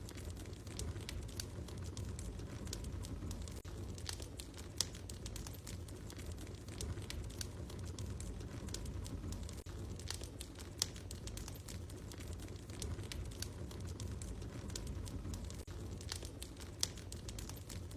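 Wood fire crackling in a fireplace: a steady low rumble with irregular small snaps and a few louder pops spaced several seconds apart.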